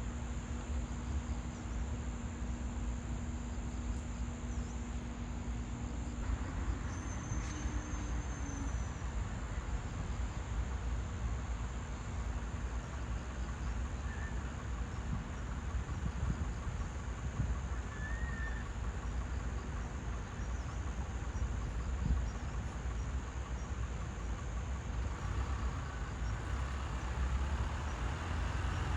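Outdoor ambience: a steady low traffic rumble with a continuous high insect trill, and two brief faint bird chirps in the middle.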